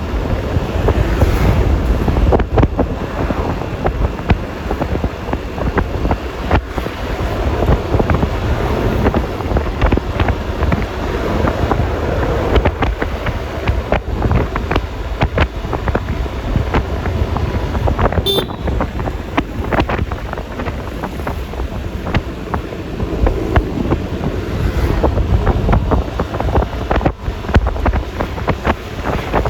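Wind buffeting the microphone over the running engine and road noise of a Yamaha Lexi LX 155 scooter riding at speed, a steady rushing roar with constant gusty thumps.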